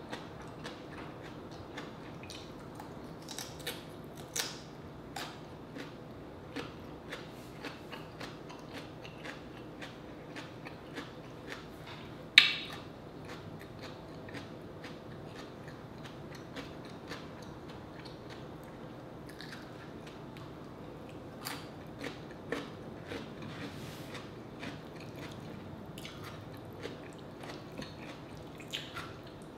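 Person chewing and crunching radish slices, with many small crisp clicks of biting and one much sharper, louder crunch near the middle.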